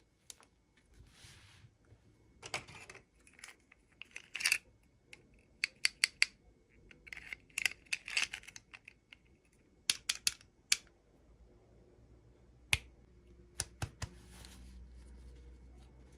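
Small toy packaging being handled and opened by hand: irregular sharp clicks and short bursts of crinkling, some in quick runs of three or four.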